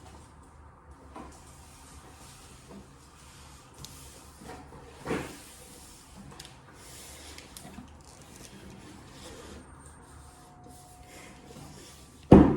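Quiet handling noise: scattered rustles and light knocks, with one louder knock about five seconds in and a sharp thump near the end.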